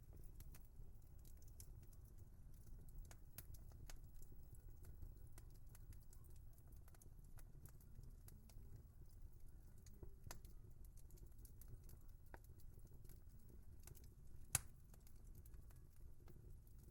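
Wood fire crackling faintly: scattered sharp pops and ticks over a low rumble of burning, with one louder pop near the end.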